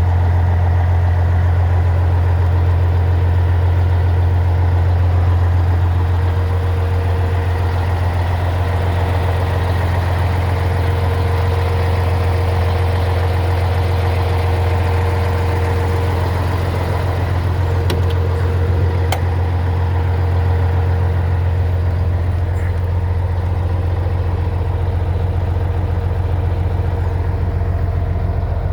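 Scania 111 truck's six-cylinder diesel engine running steadily at idle, a constant low hum.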